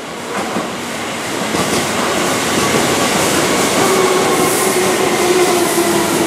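Keihan 1000-series electric commuter train running past on a curve, a steady rumble of wheels on rail growing louder, with a faint whine that falls slightly in pitch.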